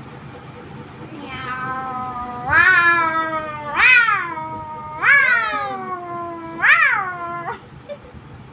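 Parrot giving a series of about five drawn-out calls, each rising and then falling in pitch, a little like a cat's meow.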